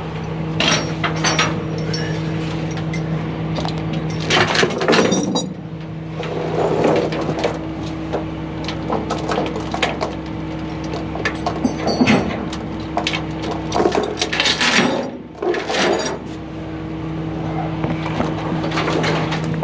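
A heavy truck engine running steadily, with irregular metal clanks and knocks over it, the loudest a cluster about five seconds in and another around fourteen to fifteen seconds.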